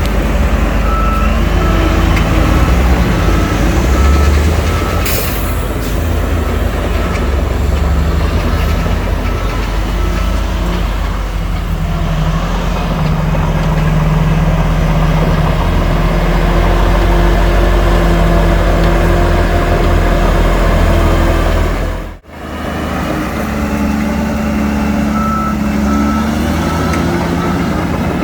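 Heavy diesel earthmoving equipment running under load, with a reversing alarm beeping about twice a second near the start and again near the end. The sound drops out briefly about three-quarters of the way through.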